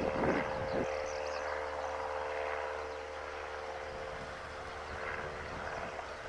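A light aircraft's engine drones steadily in the distance, with birds chirping over it. A few short croak-like calls come near the start.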